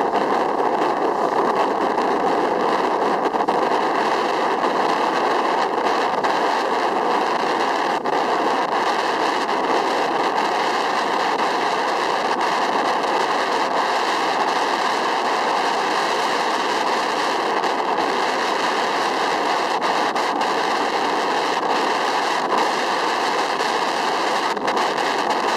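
Steady, loud rushing of wind on the microphone while windsurfing at planing speed.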